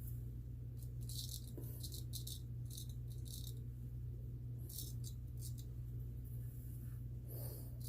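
Straight razor (Gold Dollar 208) scraping through lathered whiskers on the first pass: short, scratchy strokes in clusters, over a steady low hum.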